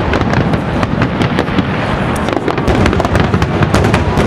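Aerial fireworks bursting in a dense, rapid barrage: many sharp cracks in quick succession over a continuous low rumble.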